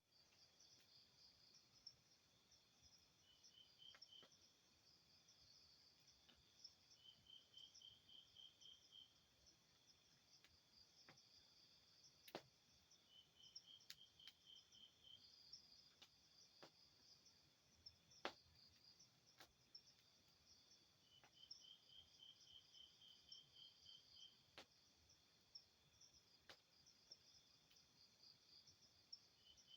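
Night insects, crickets among them, chirping continuously in a high, shrill chorus. One insect repeats short trains of evenly pulsed chirps every few seconds. Occasional sharp clicks sound over the chorus.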